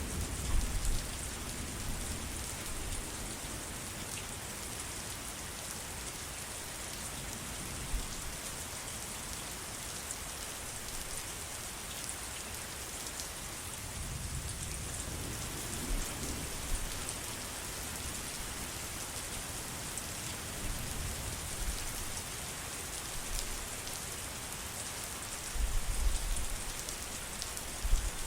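Rain falling steadily, an even hiss of many drops on leaves and surfaces, with a few brief low rumbles rising out of it now and then.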